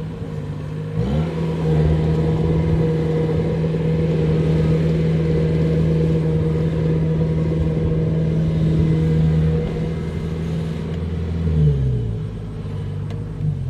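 Kubota DC-70 Plus combine harvester's diesel engine revving up about a second in, holding at high, steady revs, then dropping back toward idle near the end.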